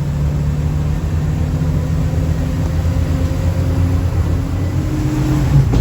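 A vehicle engine running steadily, a low even hum with a faint higher whine over it through the middle.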